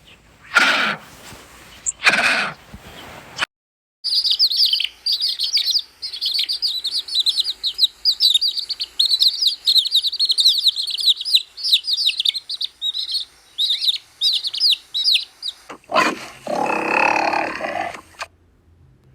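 Birds chirping in a dense, rapid stream of short high-pitched chirps for about eleven seconds. It is preceded by two short, loud animal calls and followed by another animal call of about two seconds.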